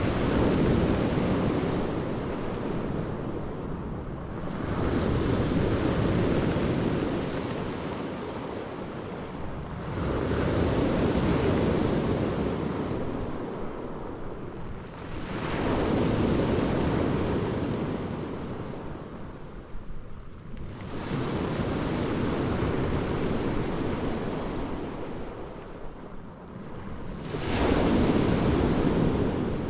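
Black Sea waves breaking on the shore, one surge about every five to six seconds, with wind buffeting the microphone.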